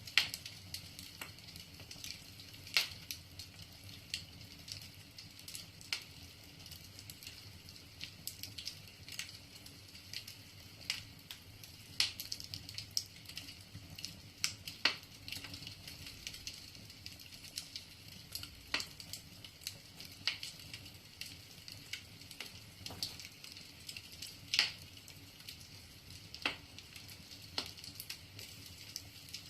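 Wood fire burning in a fireplace: irregular crackling with sharp pops, some much louder than others, over a steady low hiss.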